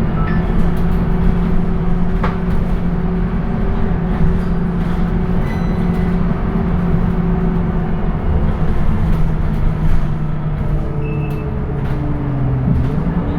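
Scania K230UB city bus's diesel engine running steadily under way, with its ZF automatic gearbox. The engine note drops in pitch about eleven seconds in, and a few light clicks and rattles sound over it.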